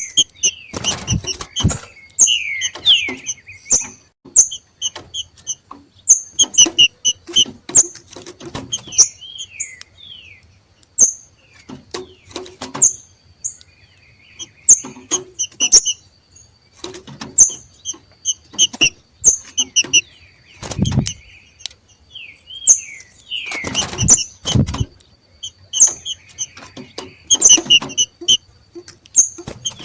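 Two green-winged saltators (trinca-ferro) giving the rapid, repeated sharp chips and short slurred notes of their excited 'macheado' call, an excitement display of birds coming into breeding condition. A few dull thumps come about a second in and again around three quarters of the way through.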